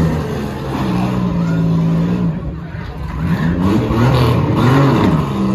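Demolition derby car engines revving, the pitch held steady, then rising and falling several times in the second half.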